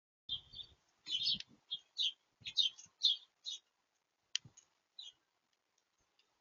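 Small bird at a smart-camera feeder pecking and scrabbling at seed right against the microphone: a quick, uneven run of clicks and taps for about five seconds, then a single sharp tap near the end.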